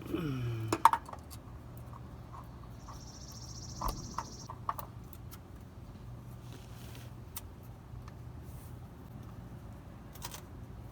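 Scattered light clicks and clinks of parts and tools being handled during an oil-filter change, over a steady low hum. A sharp click comes about a second in, and a brief high whine a few seconds in.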